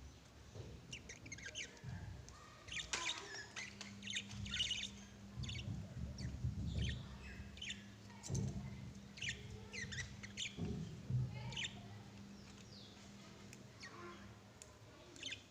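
Lovebirds chirping: many short, high chirps scattered throughout, over a steady low hum that runs for most of it, with some low thuds.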